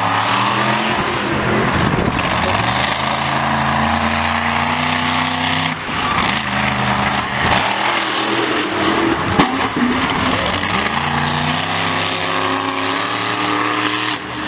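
Loud vehicle engines running and revving, the pitch rising and falling several times.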